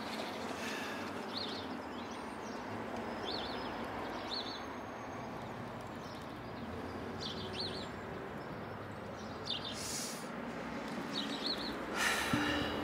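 A small bird chirping in short, quick bursts of a few high notes every second or two, over a steady outdoor background hiss. A low held musical tone comes in near the end.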